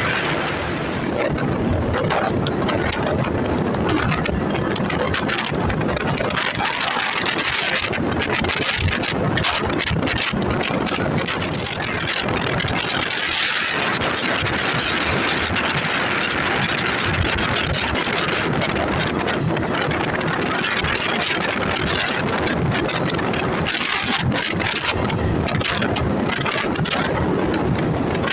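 Yamaha TW200's single-cylinder engine running steadily under way, with heavy wind noise on the microphone.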